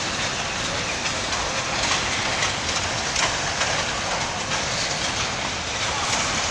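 Freight wagons rolling slowly past on steel rails: a steady rolling noise of wheels on track, with irregular clicks as the wheels cross rail joints.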